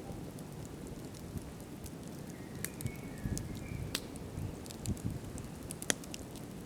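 Wood campfire burning, crackling with scattered sharp pops over a steady low noise of the fire, the loudest pop near six seconds in.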